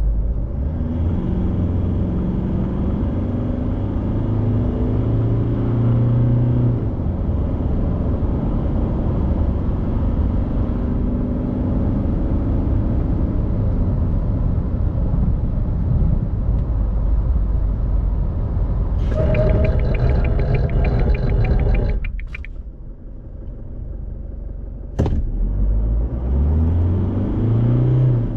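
Isuzu D-Max's 3.0-litre turbo-diesel four-cylinder pulling under acceleration, its note climbing and stepping through the gears over steady road noise. About three-quarters of the way through, the sound drops away for a few seconds. A sharp click follows, then the engine pulls again with a rising note.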